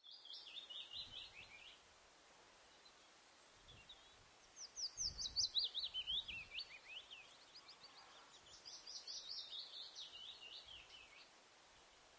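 A songbird singing three quick phrases, each a rapid run of high notes trailing downward in pitch, over faint street ambience.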